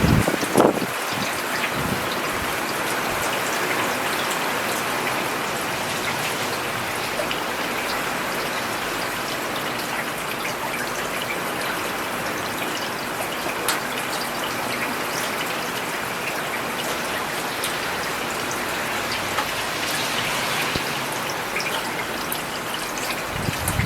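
Steady rain falling on a paved road: an even hiss with scattered individual drops ticking. A brief louder burst about half a second in.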